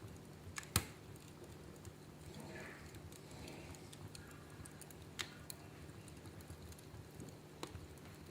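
Wood fire crackling in a fireplace: scattered sharp pops and ticks, the loudest a little under a second in, over a steady low background.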